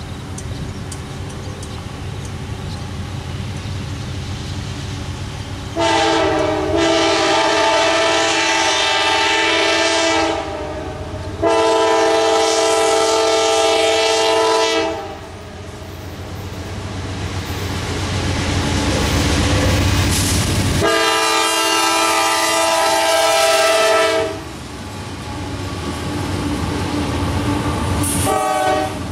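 Diesel locomotives of a CSX intermodal freight train sounding three long horn blasts, each several notes at once. A low engine rumble builds between the blasts as the train draws near, and near the end the wheels clatter past as the double-stack cars roll by.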